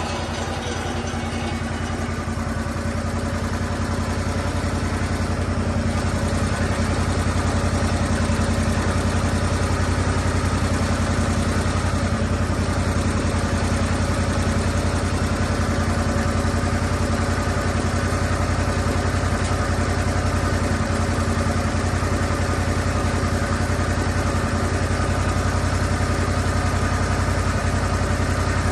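Lucas Mill 10-30 portable swing-blade sawmill's engine running steadily at a constant pitch, growing a little louder over the first few seconds.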